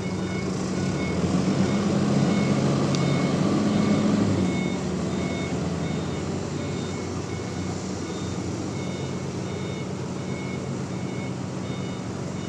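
A machine engine running steadily, louder for a few seconds near the start and then easing down, under an electronic warning beeper that sounds at a regular pace throughout, like a reversing alarm.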